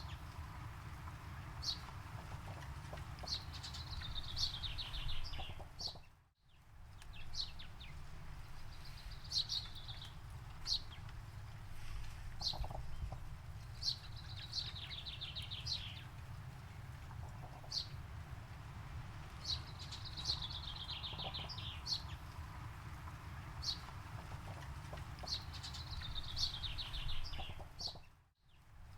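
Birds singing: a descending trill of rapid notes repeated every few seconds, with short high chirps between, over a steady low rumble. The sound fades out briefly about six seconds in and again near the end.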